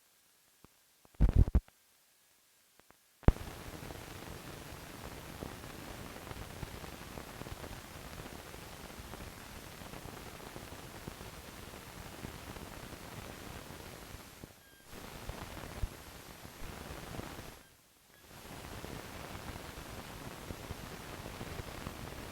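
Steady static hiss with faint crackle, the noise of an old film soundtrack running on after the programme has ended. It starts sharply about three seconds in, after a short loud pop, and dips briefly twice.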